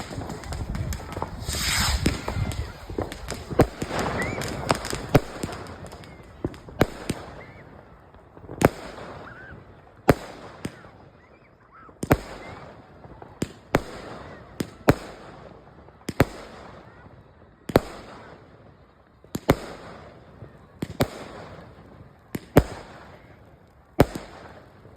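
Fireworks going off. About two seconds in there is a loud burst with a hissing crackle, then sharp bangs follow at a steady pace of about one every second and a half, each trailing off briefly.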